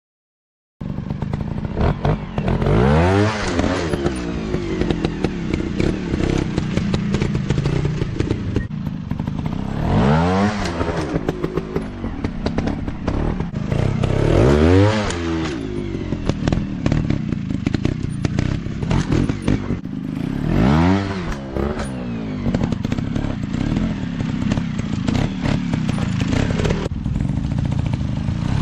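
Off-road motorcycle engines starting about a second in, revving repeatedly, the pitch climbing and dropping about five times, with clattering over rough ground.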